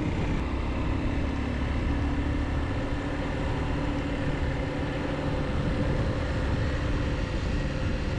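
Motorcycle engine running at a steady cruise, with wind and road noise rushing over the on-bike camera.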